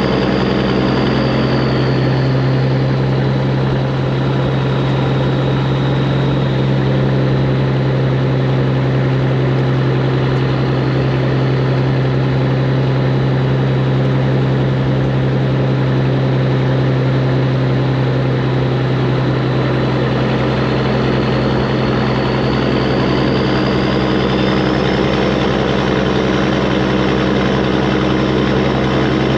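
Straight-piped Peterbilt 389's diesel engine running steadily with a low exhaust drone. Its pitch dips slightly in the first few seconds and rises a little near the end.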